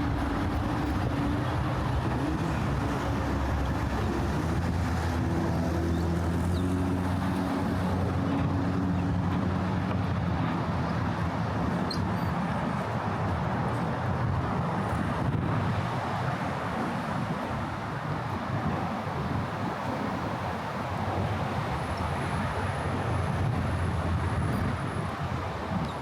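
Steady traffic noise from vehicles on the Brooklyn Bridge roadway. Through roughly the first half a low engine hum drifts in pitch, then fades into the general traffic.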